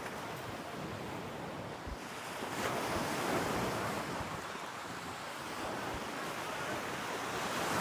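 Sea waves washing onto the shore, swelling louder about three seconds in, with wind buffeting the microphone.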